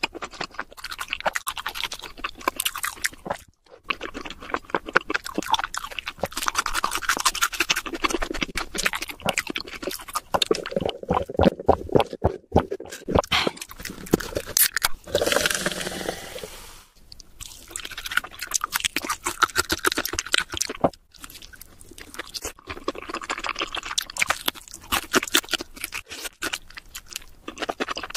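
Close-miked crunching and chewing of crisp fried food, a dense run of crackles and clicks. About halfway through comes a short steady sip through a drinking straw.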